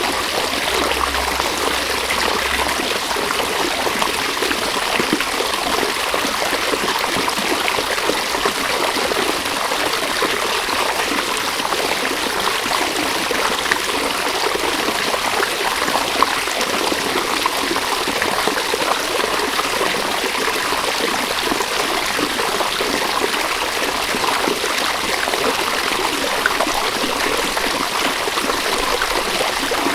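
River water running steadily, an even rushing that never pauses.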